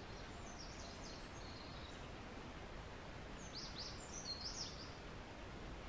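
Small birds chirping in short high notes against a steady low outdoor background noise: a few calls about half a second in, then a quicker run of chirps from about three and a half seconds to five seconds.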